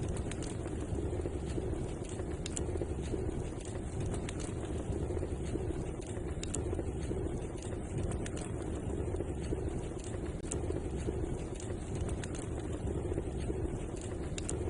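Wood fire crackling in a fireplace: scattered sharp pops and snaps over a steady low rushing noise.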